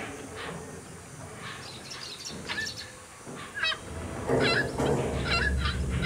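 Birds calling in a string of short, squawking calls, more frequent from about four seconds in, with a low rumble swelling underneath near the end.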